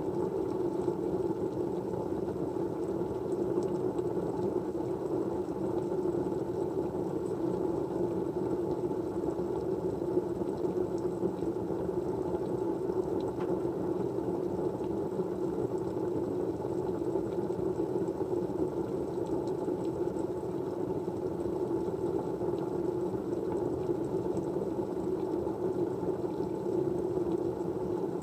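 Steady, unbroken background noise like a fan or white-noise track, heaviest in the low and middle range, with a few very faint ticks.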